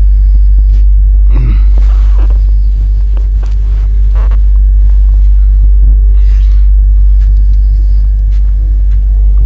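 Steady low rumble of a moving passenger train, with a few faint clicks and knocks over it.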